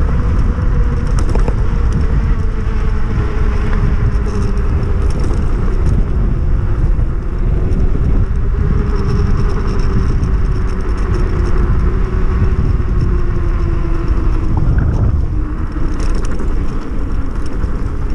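A 3000 W electric hub motor on an e-bike whining under way, its pitch slowly sinking and then climbing again as the speed changes, over a heavy steady rumble of wind and knobby tyres.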